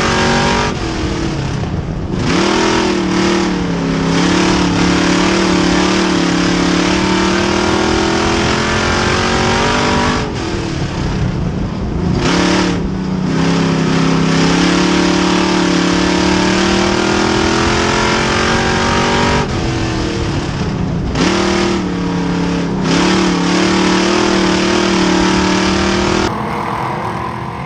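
Race car engine held at high revs with a heavy rushing noise over it. Three times the pitch drops briefly as the throttle lifts, then climbs back, about every nine seconds, like a car lapping an oval. Near the end the sound cuts to something much quieter.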